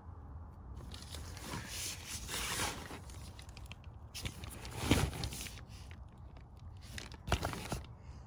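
Rustling and scraping from things being handled, in three spells, with a couple of sharp knocks about five and seven seconds in.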